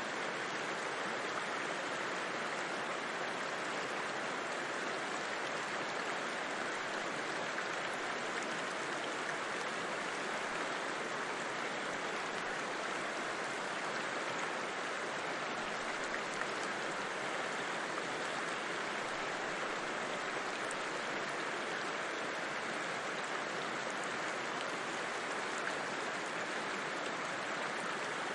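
A river flowing, a steady, unbroken rush of water with no single splashes standing out.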